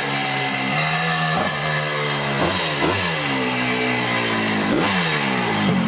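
Motorcycle engine under hard riding, its pitch sliding down and then jumping back up several times as the throttle is closed and reopened through the gears.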